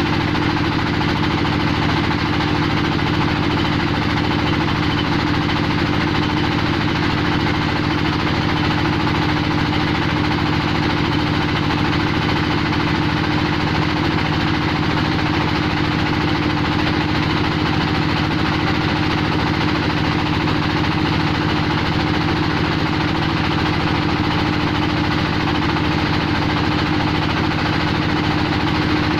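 Engine-driven clay mill for making roof tiles running steadily, a loud, unchanging mechanical drone with a fast, even engine beat.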